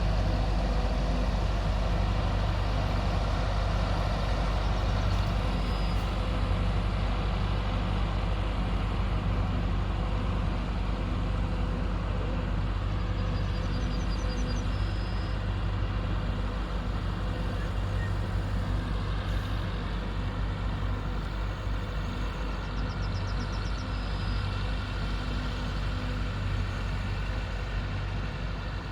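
Large diesel harvest machinery running steadily with a deep engine drone, getting slightly quieter over the stretch. Two brief faint high chirps cut through it.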